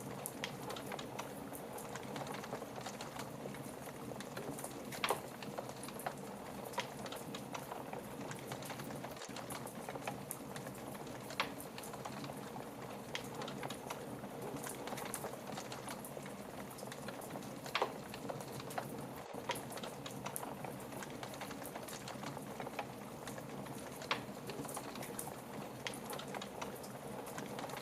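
Wood fire burning with a steady low hiss and irregular sharp crackles and pops, a few of them louder.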